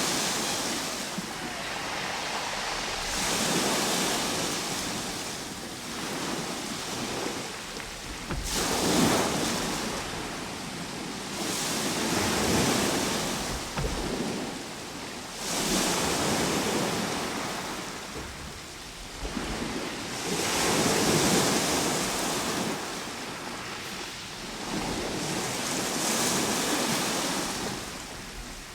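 Ocean waves breaking and washing on the shore, a steady surf hiss that swells and ebbs every four to five seconds.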